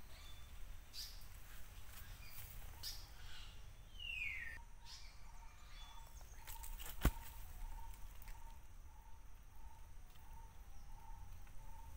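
Birds calling: a few falling whistled calls and short chirps, then a steady run of short, low repeated notes about twice a second in the second half. A single sharp click a little past the middle is the loudest sound.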